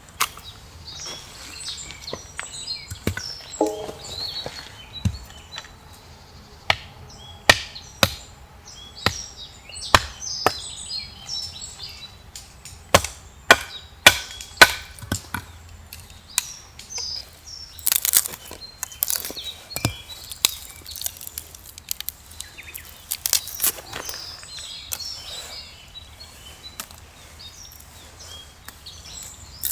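Firewood being split: a long run of irregular sharp knocks and cracks of a blade going into wood, thickest in the middle, with birds chirping lightly in the background.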